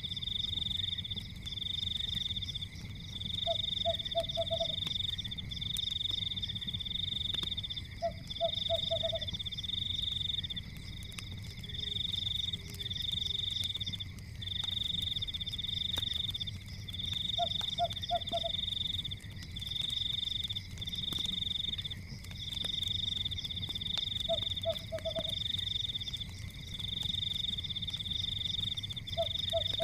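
Night chorus of frogs and insects: a high trill repeats in bursts of a second or two with short gaps, and a lower croak of three or four quick pulses comes every few seconds. Faint scattered crackles and a low rumble sit underneath, consistent with a fireplace.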